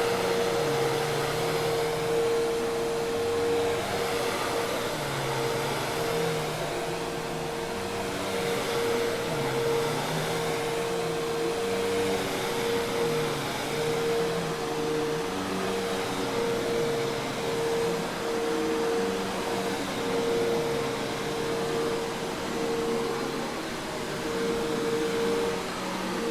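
Hoover Task Vac commercial vacuum cleaner running steadily: a rush of air with a constant motor whine and a lower hum that wavers slightly.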